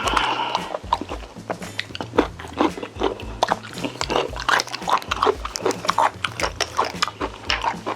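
Close-miked wet chewing and biting of Korean braised chicken, a quick irregular run of smacks and clicks, over a low bass line of background music.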